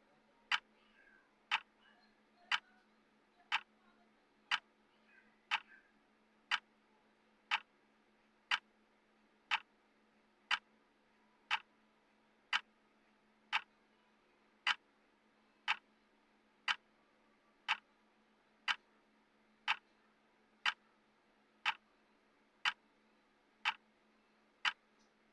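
Clock tick sound of a countdown timer: sharp, even ticks about once a second, over a faint steady hum.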